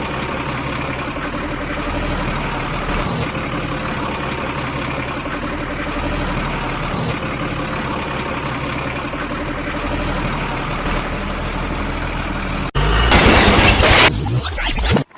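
A truck engine running steadily. About thirteen seconds in, a sudden, louder, harsher noise takes over for around two seconds, then cuts off.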